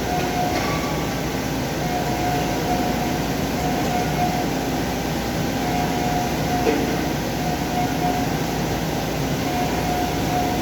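CNC machine running: a steady mechanical noise with a mid-pitched tone that comes and goes every second or so.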